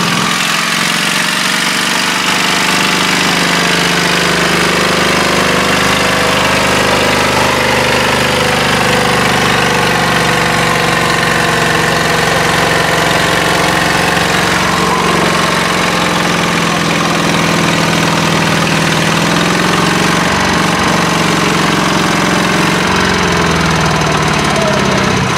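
Tractor engine running steadily and loud, its pitch shifting a little as it works.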